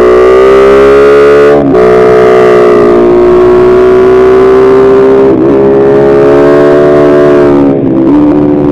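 Kayo MR150 pit bike's single-cylinder four-stroke engine running hard under throttle, a steady high whine. It briefly cuts out three times, about a second and a half in, past the middle and near the end, as the rider shifts gears, the note settling lower after the last shift.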